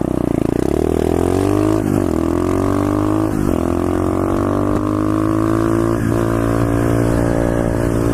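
Single-cylinder pit bike engine accelerating hard through the gears. The pitch climbs, then drops briefly at each of about four upshifts.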